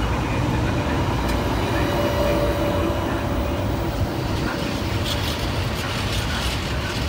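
FS E.652 'Tigre' electric locomotive hauling a container freight train, passing close by with a steady loud rumble of wheels on rail. There is a brief whine about two seconds in.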